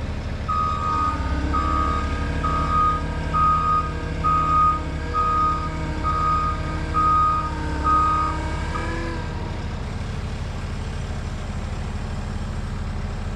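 Skid steer engine running under load while it backs up, its reversing alarm beeping nine times at a steady pace of about one beep a second. The engine settles back to a lower, steady run once the beeping stops, about two thirds of the way in.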